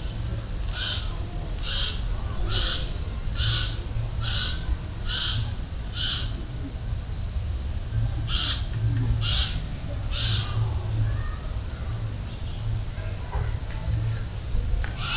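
Birds calling: a run of short harsh calls about every 0.8 s that breaks off midway and starts again, with thin high chirps over them.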